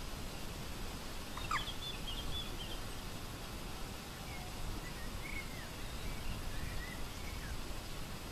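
Birds calling over a steady outdoor background hiss. One sharp call comes about a second and a half in, followed at once by a quick run of high chirps, then several short, arched chirping notes until near the end.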